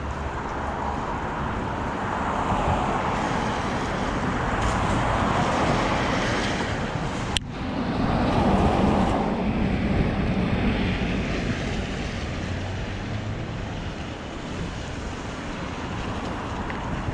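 Street ambience of traffic passing, with wind noise on the microphone and a swelling, fluctuating rumble. There is a single sharp click about seven seconds in.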